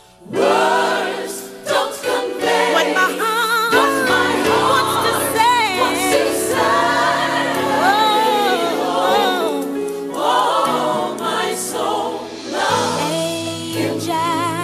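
Gospel choir singing with instrumental backing, voices with vibrato, starting abruptly.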